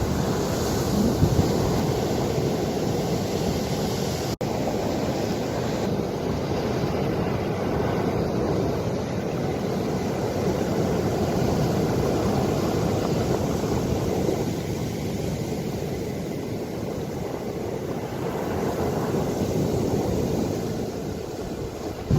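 Ocean waves washing ashore: a steady rush of surf that swells and eases slowly, with wind on the microphone. A very brief dropout cuts the sound about four seconds in.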